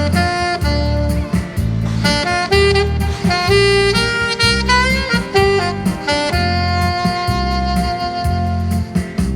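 Saxophone playing a song melody over a backing track with bass and beat: a phrase of short notes, then one long held note about two-thirds of the way through.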